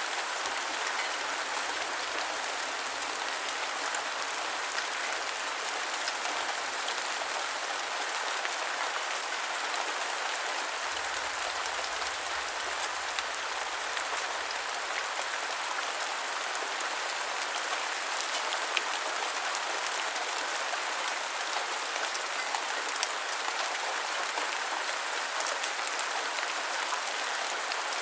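Steady rain falling, an even hiss with scattered drop ticks and no low rumble.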